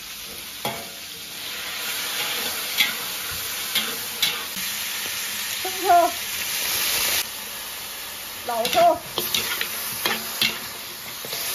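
Pork ribs with chunks of scallion and ginger sizzling in a hot iron pot as they are stirred, the utensil scraping against the pan now and then. The sizzle drops away sharply about seven seconds in, and the scrapes continue after it.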